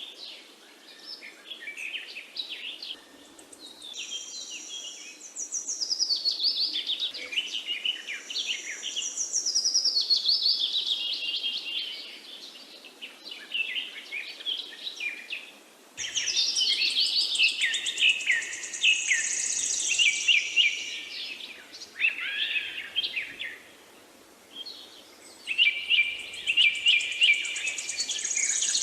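Birdsong: many small birds chirping and trilling at once, with quick rising and falling notes, over a faint steady background hiss.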